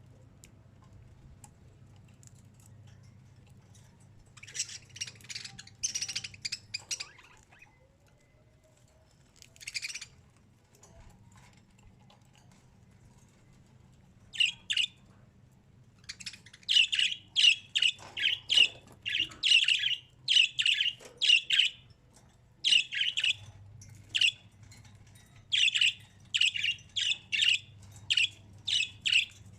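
A bird calling in short bursts of chirps: a few bursts early, a pause, then from about halfway a quick series of repeated calls, each call a short cluster of notes. A faint low hum lies underneath.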